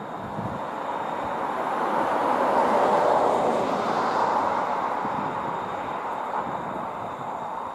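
A train passing by, its rumbling noise swelling to a peak about three seconds in and then fading away.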